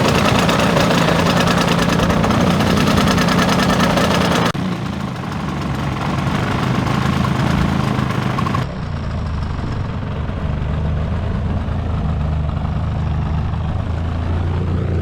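Giant-scale model airplane engine running loud and fast with a rapid pulsing beat. The level drops suddenly about four and a half seconds in and again about eight and a half seconds in, leaving a steadier, lower hum.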